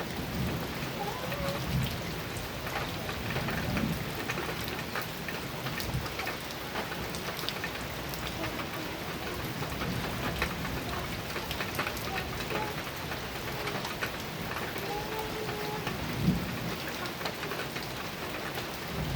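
Heavy rain drumming on a metal roof: a steady hiss dense with sharp drop taps, with low thunder rumbling up now and then and one sharp crack near the end.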